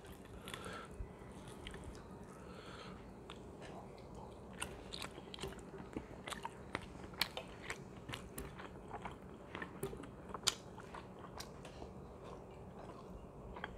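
Close-up mouth sounds of a man chewing chicken biryani: quiet, wet chewing with many small sharp clicks and smacks, more frequent in the second half.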